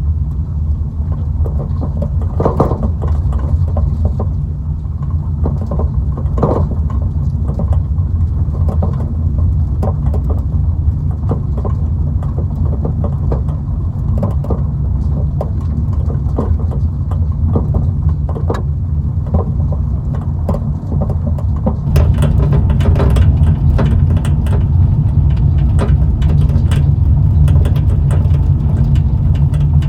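Car in motion heard from inside the cabin: a steady low rumble of road and engine noise with scattered small clicks and rattles. About two-thirds of the way through, the road noise gets louder and rougher.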